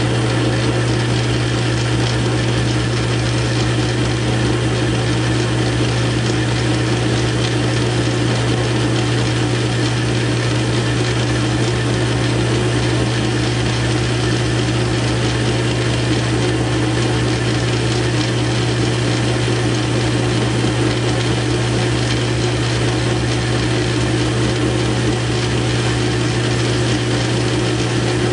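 South Bend 9-inch lathe running steadily under power feed, its motor and gear train giving a constant hum and whir while the tool takes a cut in stainless steel bar.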